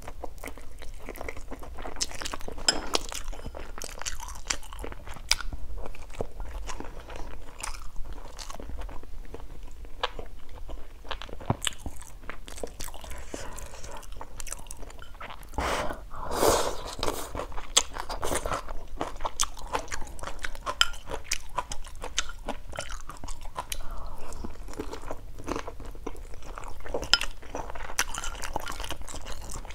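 Close-up mouth sounds of eating: chewing and biting pieces of stir-fried chicken with soft crunches and smacks, and a longer slurp of noodles from soup a little past halfway.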